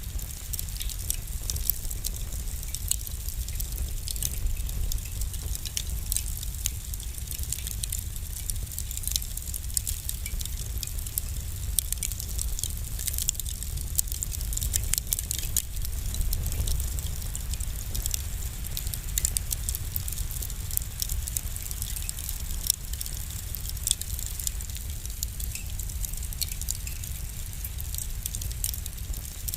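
Wood fire crackling in a fireplace: many quick irregular pops and snaps over a steady low rumble of the flames.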